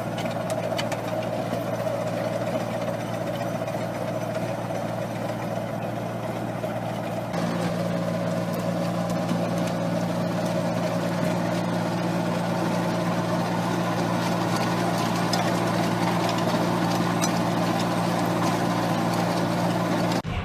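Heavy machine's engine running steadily with a constant low hum. About seven seconds in, a deeper tone joins and it gets slightly louder.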